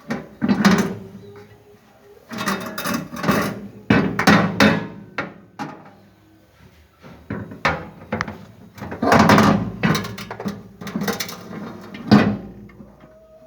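Knocks and clatter from handling a microwave oven and its turntable plate, in about seven short bursts with pauses between.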